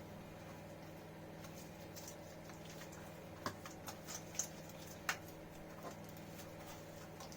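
A steady machine-like hum with a few sharp taps or clicks in the middle, the loudest about five seconds in.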